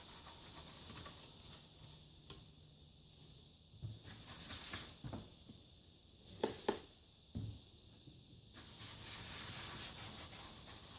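A cloth rubbing and wiping a small plastic PLC module cover, in several rustling stretches, with a few sharp clicks of handling about six and a half seconds in.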